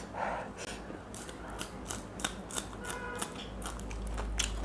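Raw green chillies being bitten and chewed close to a lapel microphone: a quick run of crisp, sharp crunches.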